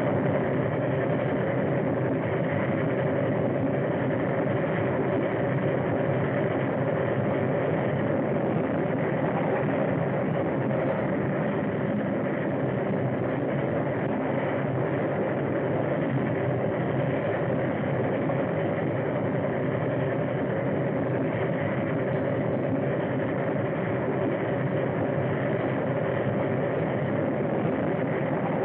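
A train running steadily on the rails, a continuous even rumble that does not change.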